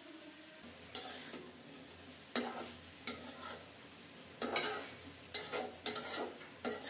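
Bottle gourd greens stir-frying in oil in a metal pan, with a steady sizzle. A flat metal spatula scrapes and turns them against the pan in about seven irregular strokes.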